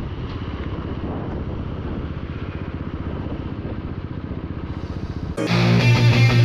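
Royal Enfield Thunderbird 350X single-cylinder engine running through an aftermarket Red Rooster exhaust, a steady rapid low thump. About five seconds in, loud rock music cuts in over it.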